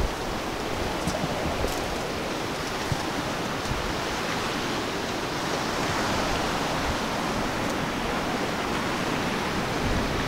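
Steady rush of ocean surf washing onto a beach.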